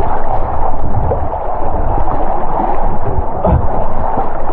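Loud rushing, gurgling water of a fast river rapid right at the microphone.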